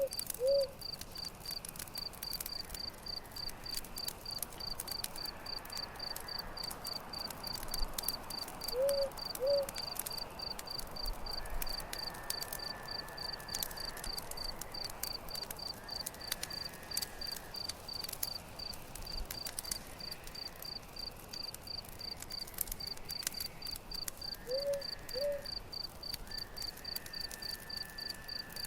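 Campfire crackling with sharp scattered pops, over a cricket chirping steadily about twice a second. A short low two-note call sounds three times: at the start, about nine seconds in, and near the end.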